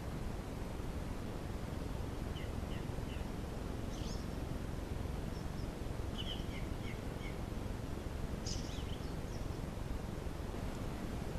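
Steady hiss of a camera trap's microphone, with short high bird chirps in small clusters scattered through.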